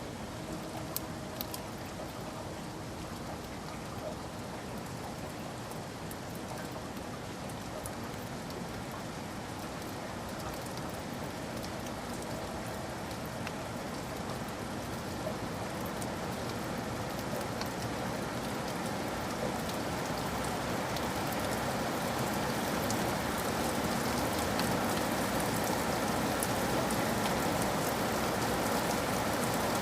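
Steady rain falling on surfaces, growing gradually louder, with a few scattered drop ticks.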